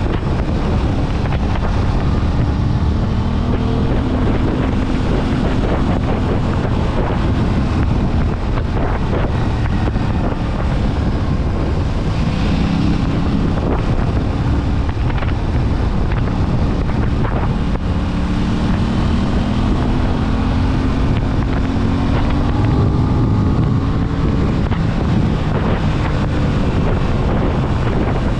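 Aprilia RS 660's parallel-twin engine under way, its pitch climbing slowly and dropping back several times as the bike accelerates and shifts, with heavy wind noise on the microphone.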